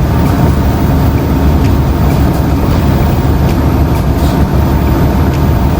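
Steady low rumble of a semi truck's diesel engine, heard from inside the cab.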